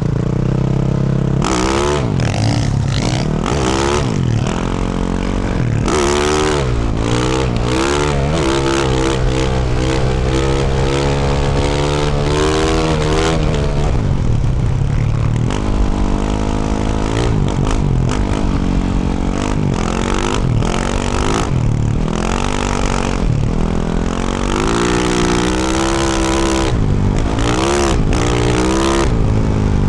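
2024 Yamaha YZ450F's 450cc single-cylinder four-stroke engine, through a Yoshimura RS-12 exhaust, revving up and down over and over as it is ridden on and off the throttle, with a steadier stretch partway through.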